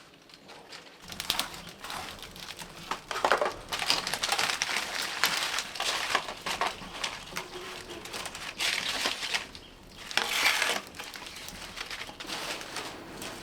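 Rustling and crackling of dry plant material being handled or pushed through. It comes in several louder surges, strongest a few seconds in and again near the end.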